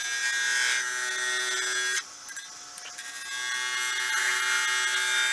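A lathe gouge cutting into a spinning blank of stabilized wood and resin, a hissing, whining cut in two passes with a short break about two seconds in. The resin-filled material is dulling the steel gouge quickly.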